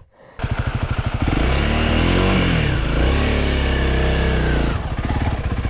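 Honda CRF300L dirt bike's single-cylinder engine, coming in suddenly after a moment's silence, then revving: the pitch rises about a second in, swings up and down, and eases off near the end.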